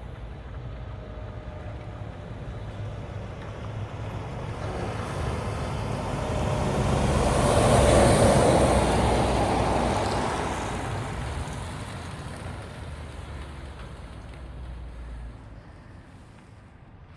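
Scania V8 770 hp truck driving past: its low engine rumble and road noise grow to their loudest about eight seconds in, then fade away.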